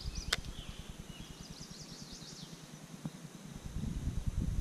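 Birds chirping and singing in short phrases over a low, uneven rumble, with one sharp click about a third of a second in.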